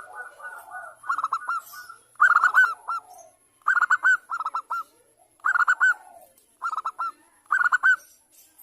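Zebra dove (Bangkok-type perkutut) singing: six short phrases of quick, rolling coo notes, a phrase about every second and a half. A fainter, lower warbling bird call sounds near the start.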